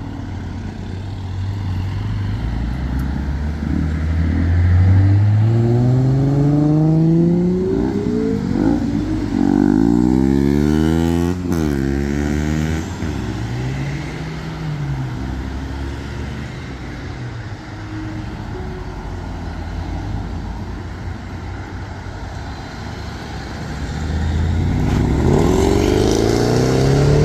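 A modified car's engine revving hard. It makes one long climb in pitch, then a flurry of quick up-and-down revs and a couple of short blips. It settles to a lower steady note, then revs up again near the end.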